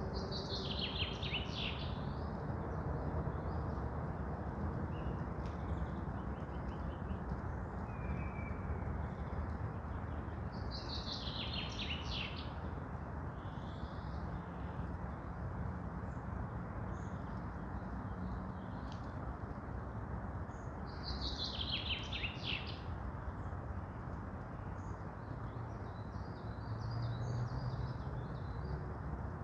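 A songbird sings a short, falling trilled phrase three times, about ten seconds apart, over a steady low background rush of forest noise.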